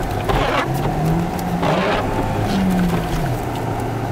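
Audi car engine revving up and dropping back twice as the car is driven sliding on snow, with two short rushing noises over it.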